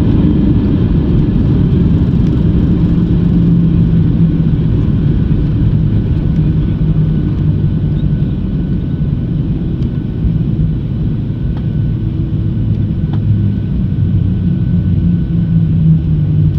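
Steady low rumble inside a Boeing 737-700 cabin on the ground after touchdown, with its CFM56 engines at low power and a few faint clicks.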